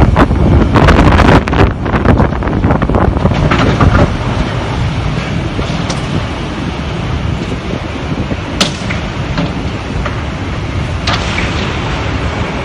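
Storm wind buffeting the microphone over steady hail and rain, with scattered sharp hailstone impacts. Gusts and clatter are heaviest in the first few seconds, then settle to a steadier hiss.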